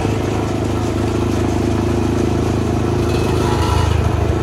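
Dirt bike engine running steadily close by, revving up slightly near the end.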